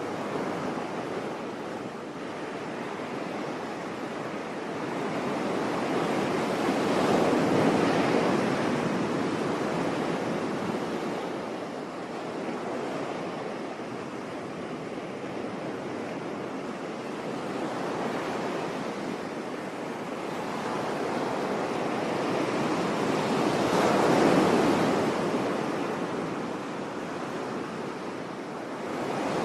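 Sea waves breaking and washing on a beach: a steady rush that swells twice, about a quarter of the way in and again near the end, and ebbs in between.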